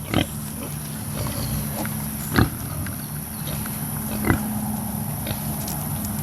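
Pigs grunting: a few short, separate grunts over a steady low hum.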